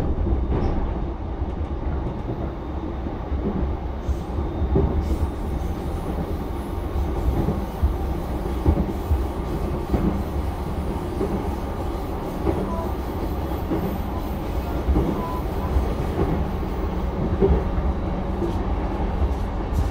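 Running noise heard inside a JR East E233-7000 series electric commuter car under way: a steady rumble of wheels on rail, with a few brief knocks from the track scattered through.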